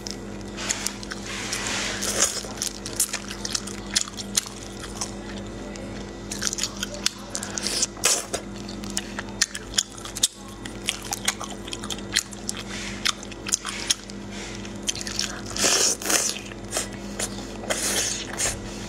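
A person eating close to the microphone: chewing and biting, with many sharp, irregular mouth clicks. A steady low hum runs underneath.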